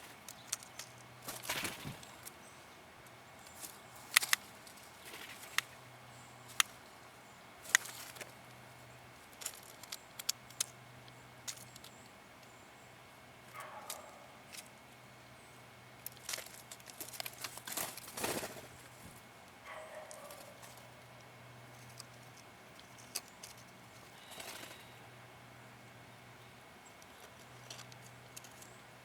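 Blue jay giving sharp, dry clicks, scattered irregularly with gaps of a second or more, with a few softer, short sounds in between.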